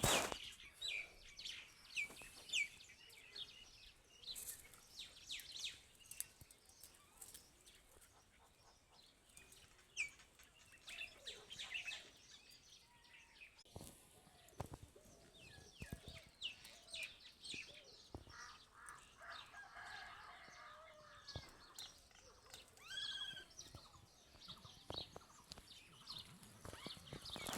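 Birds chirping in many short, falling notes, with lower calls from domestic fowl about 19 to 22 seconds in.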